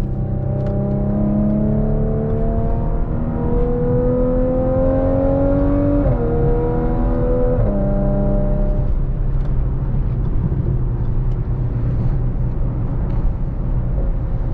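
Audi SQ5's 3.0-litre V6 heard from inside the cabin through AWE non-resonated downpipes and a Touring catback exhaust, accelerating in manual mode. The engine note rises for several seconds, drops with an upshift about six seconds in, climbs briefly and drops again with a second upshift about two seconds later, then settles into a steady cruising drone.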